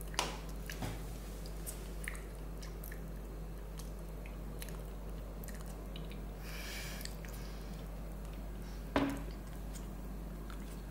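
A person chewing a mouthful of soft durian flesh, with faint wet mouth clicks, a brief hiss of breath about six and a half seconds in and a short vocal sound about nine seconds in.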